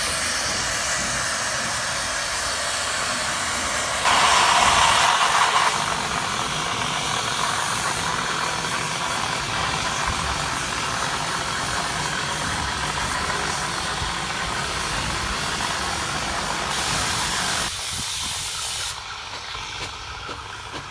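Steam hissing steadily from the 1861 Robert Stephenson steam locomotive Caroline, with a louder blast of steam about four seconds in lasting under two seconds. The hiss drops away near the end.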